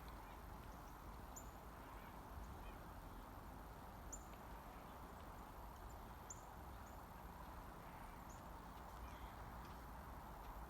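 Quiet outdoor background with several faint, short, high bird chirps scattered through it.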